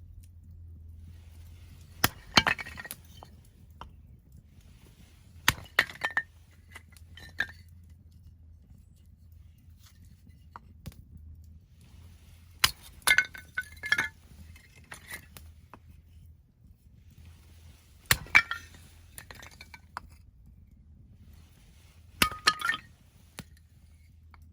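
Husqvarna axe splitting firewood: five sharp strikes several seconds apart, each followed by the split pieces of wood knocking and clinking together as they fall.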